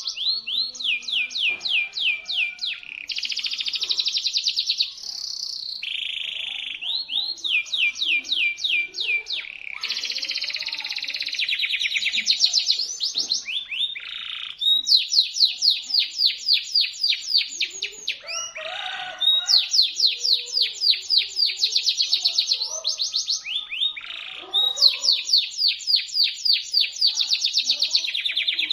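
Domestic canary singing continuously in shrill, sharp trills: each roll is a rapid string of the same note repeated for a second or two, then it switches straight to another note type.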